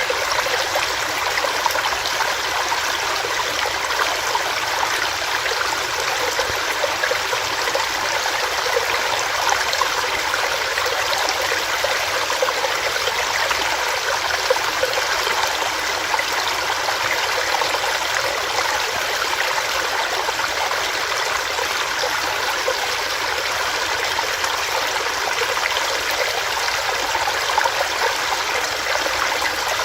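Small rocky stream running over rocks: a steady, even rush of water.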